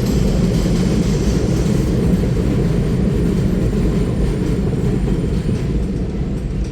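Loud, steady rumble of a vehicle in motion, heard from on board.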